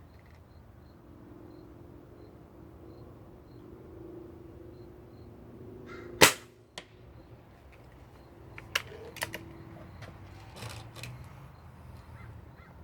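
A single shot from a .22 caliber Crosman Valiant Elite pellet rifle, a sharp crack about six seconds in, followed by a few fainter clicks.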